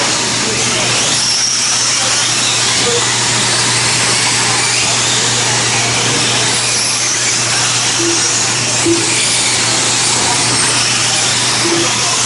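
Several brushless electric RC short course trucks racing, their motors whining up and down over a steady hiss of tyres on dirt, with a steady low hum underneath.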